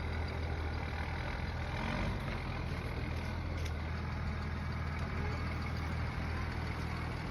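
Skid loader engine running steadily at a constant pitch and level, with a deep steady hum.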